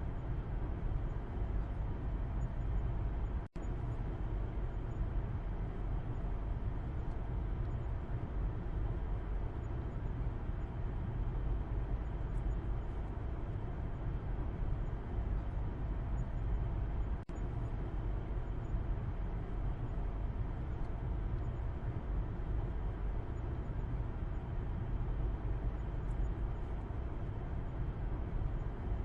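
Steady low road and engine noise inside a moving car's cabin, heard from the back seat: an even drone heaviest in the bass, with two very short dropouts.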